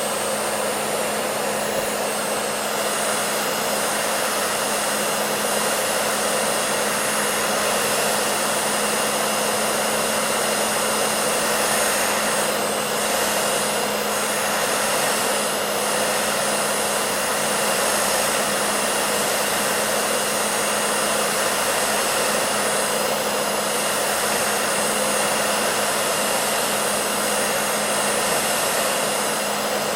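Hair dryer running continuously at a steady speed: an even rush of blown air with a constant motor hum underneath.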